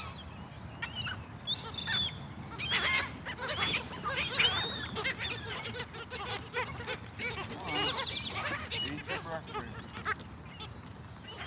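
Several seagulls calling, many overlapping harsh squawks that rise and fall in pitch, coming thick through the middle of the stretch.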